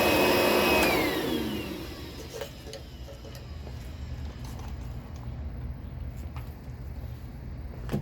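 DeWalt DCV581H cordless wet-dry vacuum running as a blower, with its hose on the exhaust port. About a second in it is switched off and its whine falls away as the motor spins down. A few faint clicks and knocks follow.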